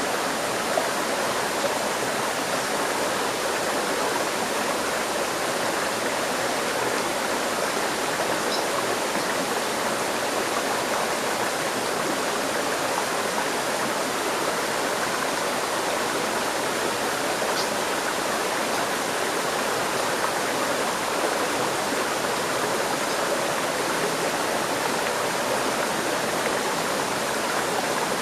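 River stream flowing over rocks: a steady, even rush of water.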